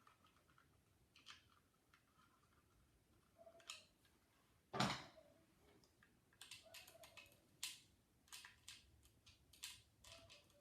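Faint, scattered clicks and taps from handling the opened sewing machine foot pedal and its wires, with one louder knock a little under five seconds in.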